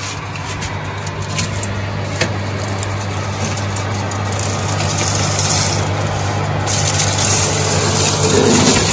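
Kitchen fan running with a steady low hum and hiss, the hiss getting louder in the second half with a sudden step up about two-thirds of the way through, as foil-lined trays of pies go into the heated oven.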